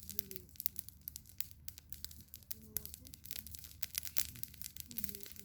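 Campfire burning, crackling with frequent sharp pops and snaps of burning wood, over faint, indistinct voices in the background.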